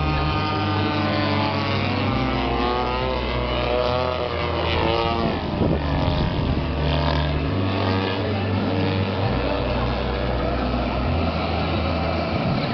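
Remote-control foam aeroplane's electric motor and propeller whining, its pitch rising and falling as it flies about, with a quick drop in pitch about halfway through.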